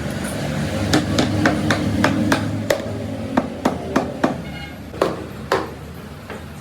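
Hammer blows in a run of about a dozen sharp strikes, a few a second, over a steady low hum.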